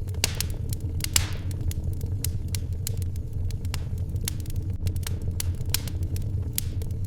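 Wood fire crackling in a fireplace: irregular sharp pops and snaps over a steady low rumble, with two louder pops near the start, each followed by a brief hiss.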